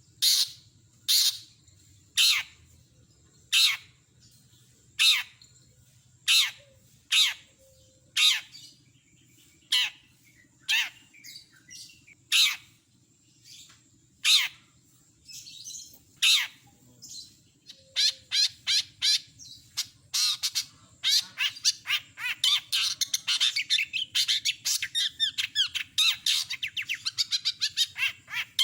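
Long-tailed shrike (cendet) giving loud, harsh, downward-sweeping squawks about once a second, then breaking into a fast, unbroken chattering song about two-thirds of the way through.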